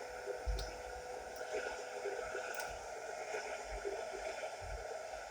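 Faint steady background noise with a few low thumps and scattered soft clicks.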